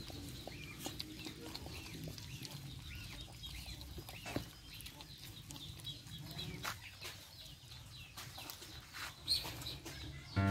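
Chicks peeping: many short, high cheeps in quick succession, thinning out after the first few seconds.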